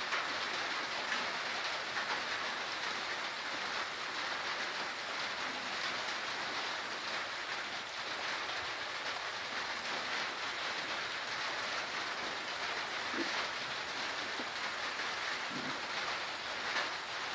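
Steady heavy rain falling during a thunderstorm, an even hiss that holds at one level throughout.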